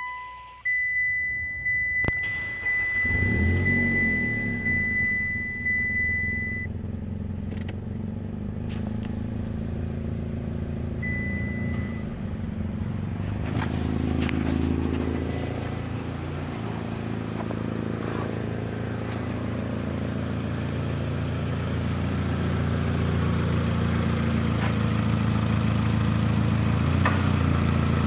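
2008 Mitsubishi Lancer GTS 2.0L inline-four engine started and running, with a brief rise in revs around the middle before settling back to a steady run. A high beeping tone sounds for the first several seconds as it starts.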